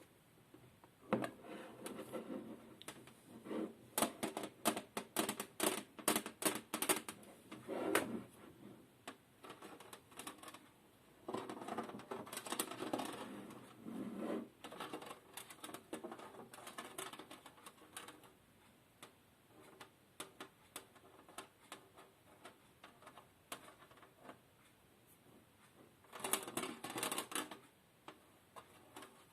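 ASMR trigger sounds close to the microphone: quick runs of tapping and clicking on a hard object, with scratchy rustling in between. Dense bursts come in the first several seconds, again a little before the middle, and once more near the end, with lighter scattered taps between.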